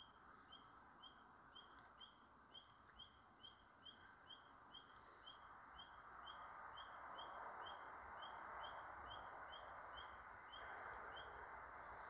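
A bird giving the same short chirp over and over, about two a second, then stopping near the end, over a faint steady rushing hiss that grows louder about halfway through.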